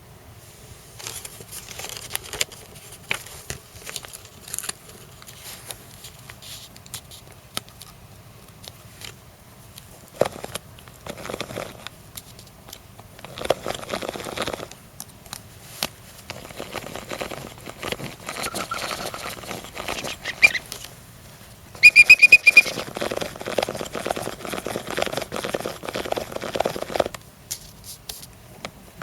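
Gakken Otona no Kagaku hand-cranked bird organ being played: clicks from the crank and mechanism and breathy air through the pipes, with high whistling pipe notes. About 22 seconds in comes a loud, rapid run of shrill piping notes.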